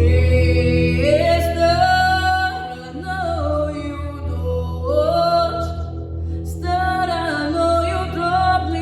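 Female voice singing long held notes that slide up into each new pitch, over an instrumental accompaniment with a sustained low bass.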